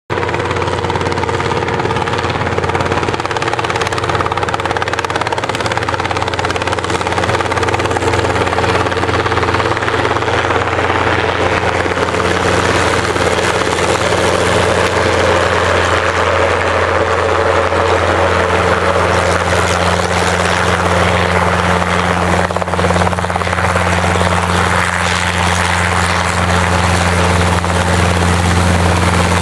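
Helicopter's rotor and turbine running steadily with a low, even blade beat, growing gradually louder as it comes in to land.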